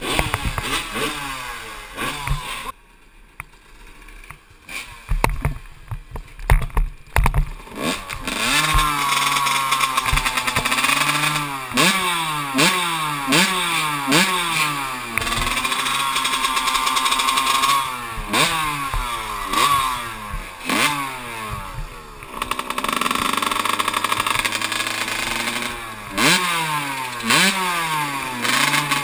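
Kawasaki KX125 two-stroke motocross engine, ridden hard: it revs up, drops at each shift and revs up again, over and over. The first several seconds are quieter and uneven, with a few sharp knocks.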